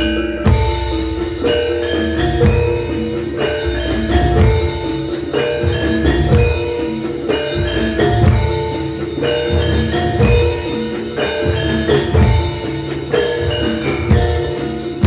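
Javanese gamelan ensemble playing a gending: struck bronze metallophones ringing out quick interlocking notes over kendang drum strokes.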